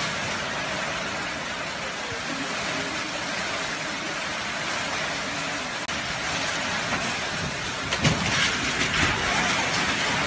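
Heavy rain pouring down in a steady, dense hiss. About eight seconds in, a louder stretch of sound rises over the rain.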